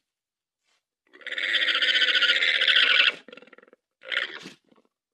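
Guanaco calling: one long, rapidly pulsed, shrill call of about two seconds, followed by two short calls.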